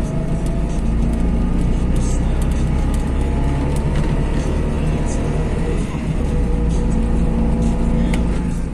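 Trabant 601's two-cylinder two-stroke engine running steadily while the car is driven, with scattered short rattles and knocks as it goes over bumpy road.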